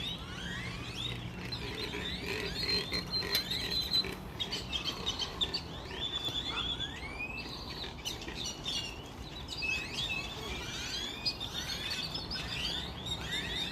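A flock of small birds chirping all at once, many short rising calls overlapping without pause. A faint low hum sits underneath at the start and again near the end.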